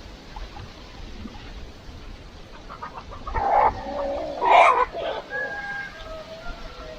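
Chickens clucking and calling, with two louder calls about three and a half and four and a half seconds in, followed by softer drawn-out calls.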